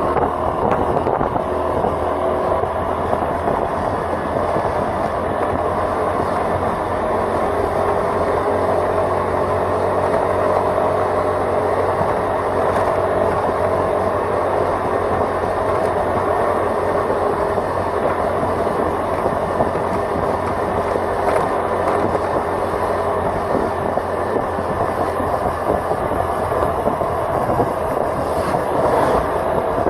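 Steady vehicle engine and road noise heard from on board the moving vehicle, with a faint steady engine tone.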